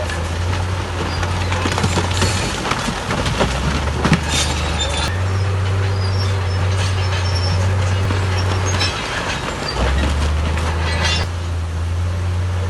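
Crawler bulldozer's diesel engine running under load, its pitch shifting up and down several times, with the tracks clanking and squealing.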